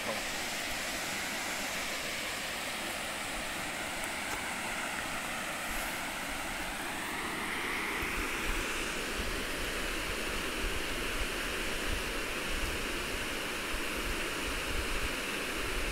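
Steady rush of a waterfall and its river.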